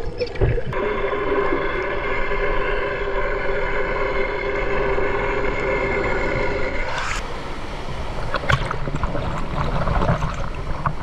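Moving water with wind buffeting the microphone. A steady mechanical hum with several pitches runs alongside until it cuts off about seven seconds in, after which splashing with sharp clicks takes over.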